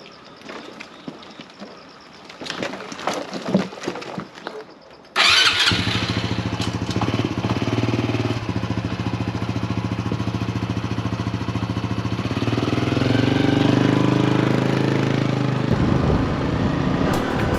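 A few light clicks and knocks, then a Honda Hunter Cub's single-cylinder engine starts about five seconds in and runs steadily, rising in pitch near the end.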